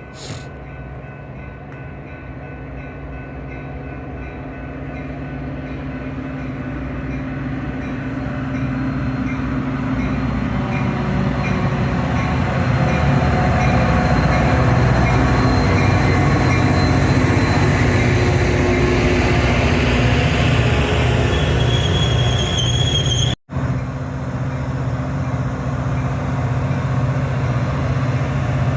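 Diesel-hauled Metra commuter train approaching, its rumble growing steadily louder over about twelve seconds and then running loud and steady past the platform. A brief high wheel squeal comes about two-thirds through, just before the sound cuts out for an instant.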